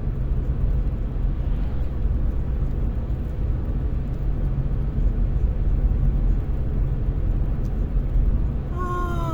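Steady road and engine noise inside a moving car, a low rumble with no change in pace.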